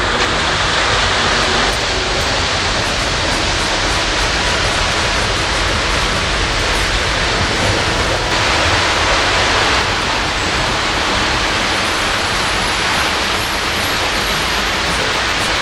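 O scale model train running on a suspended track: a loud, steady, even noise with no breaks.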